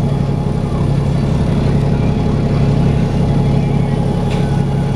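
Dennis Trident 2 double-decker bus engine running steadily with a low hum and a thin steady whine above it: the 'hoover' sound for which enthusiasts record this bus.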